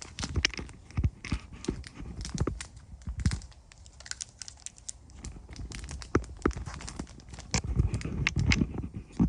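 Packaging being torn open and crinkled by hand, with irregular sharp clicks and rustles.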